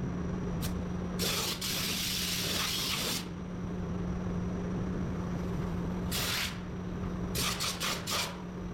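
Bursts of spraying hiss: one lasting about two seconds, then a short one, then four or five quick short spurts near the end, over a steady low shop hum.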